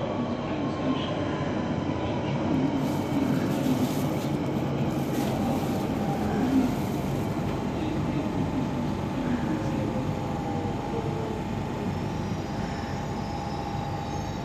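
London Underground Central Line electric train at the platform, a whine falling slowly in pitch over about ten seconds over a steady rumble, and a steady tone coming in about halfway through.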